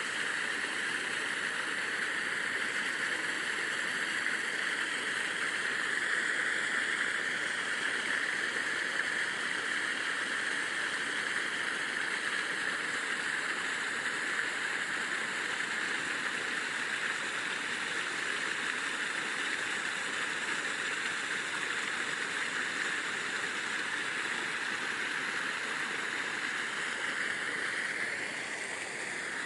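Steady, even rushing noise with no distinct events, strongest in the upper-middle range.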